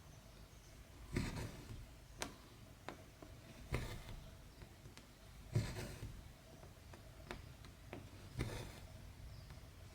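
Hand cross-stitching: thread drawn through stamped cross-stitch fabric with a soft swish, about four times, every two to three seconds. Light, sharp ticks fall in between.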